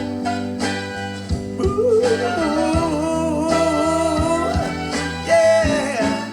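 Soul-style band music with drums and guitar, a voice holding one long wavering note about two seconds in over a steady drum beat.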